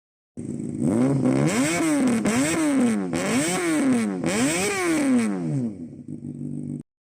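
Motorcycle engine revved four times in quick succession, the pitch climbing and dropping about once a second, then dropping back to idle before cutting off abruptly.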